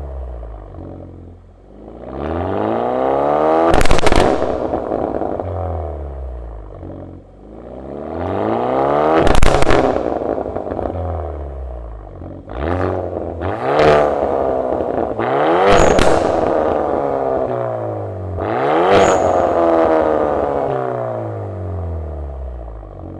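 Hyundai N-model 2.0-litre turbo four-cylinder running through a Daven N Performance version 2 aftermarket exhaust, revved about five times, its pitch rising and falling. Sharp pops and crackles come from the exhaust at the top of each rev.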